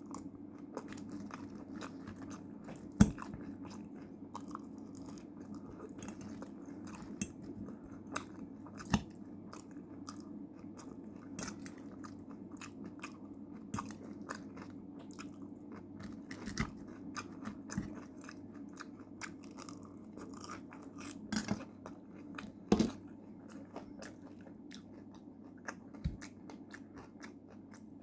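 A person chewing and crunching a meal of air-fried potato chips, chicken breast and salad, with many small wet clicks and a few louder sharp taps.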